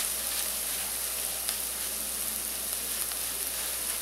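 Chopped onion and garlic frying in a pot, a steady sizzling hiss with faint crackles.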